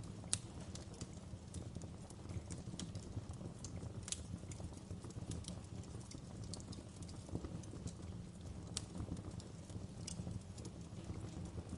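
Campfire crackling: irregular sharp pops and snaps over a low steady rumble of burning wood, with the loudest pop about a third of a second in.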